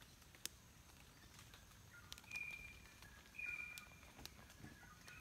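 Faint bird calls in the forest: two high whistled notes, held for about half a second each, a little past two and three seconds in, with softer lower notes around them. Scattered faint clicks.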